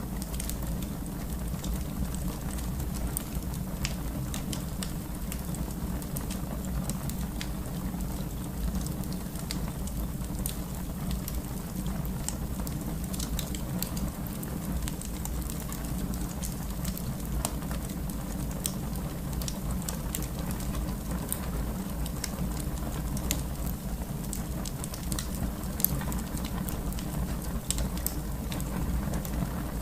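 Wood fire in a fireplace crackling: frequent irregular pops and snaps over a steady low rush of the flames.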